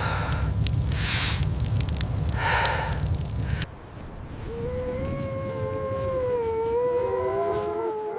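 Wolves howling: one long, slowly wavering howl begins about four and a half seconds in, and more howls join it in a chorus near the end. Before that, a loud low rushing noise with hissing surges cuts off abruptly about three and a half seconds in.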